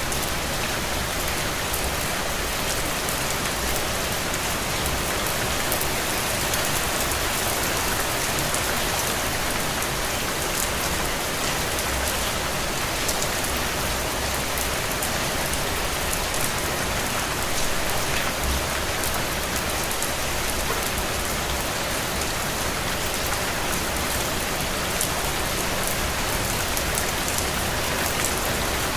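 Steady rain falling on a window, an even wash of noise with scattered individual drops ticking on the glass.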